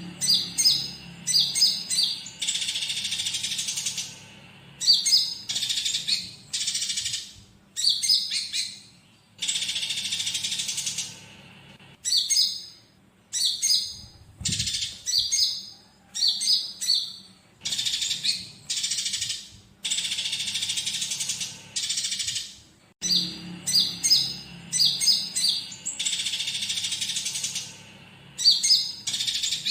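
Konin songbird singing: bursts of quick sharp chirps, each run into a long buzzy trill of a second or two, the phrases repeating every two to three seconds. The song is laced with imitations of fighting sparrows. A faint low hum lies underneath.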